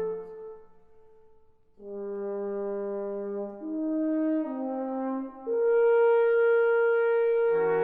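Brass ensemble playing slow, sustained chords. A held chord dies away at the start, and after a short hush new chords enter a little under two seconds in and shift step by step, ending on a fuller chord near the end.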